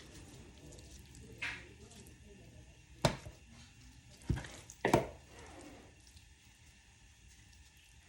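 Four sharp knocks and clatters of kitchen utensils against cookware, the loudest about three and five seconds in, over a low steady background.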